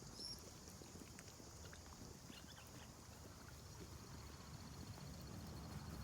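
Faint outdoor ambience: a low rumble of wind on the microphone with a faint, steady high-pitched buzz, pulsing in the second half, and a couple of tiny faint chirps.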